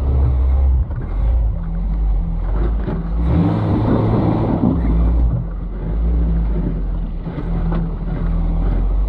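Off-road truck's engine running with a deep, steady rumble, with a louder, rougher stretch of about two seconds around three seconds in.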